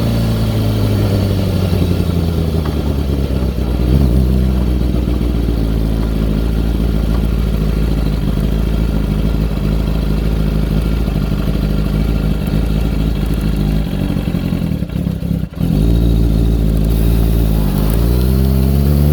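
2002 Kawasaki ZX-6R's carbureted inline-four engine settling from a rev down to idle. It stumbles and dips briefly about three-quarters of the way through, then is revved up again near the end. The owner suspects the uneven running comes from the carbs or fuel after the bike sat unused.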